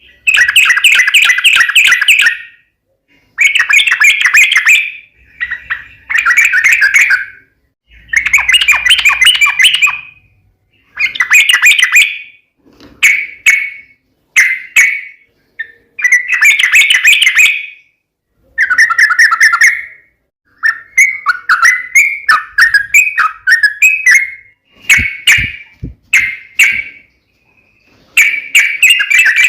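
Yellow-vented bulbul singing loud, bubbly chattering phrases, each a second or two long with short pauses between, repeated about a dozen times in the excited 'fighting' (tarung) song.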